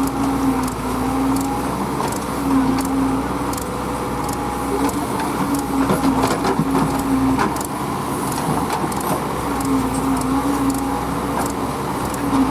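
Diesel engine of a working farm machine (a backhoe loader or tractor) running steadily with a droning tone that wavers in pitch, mixed with scattered clicks and knocks.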